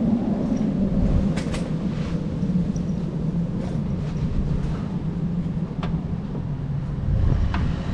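A steady low rumble in the background, with a few light clicks and taps of screws being fitted into the plastic headlight assembly, two close together about a second and a half in and two more later.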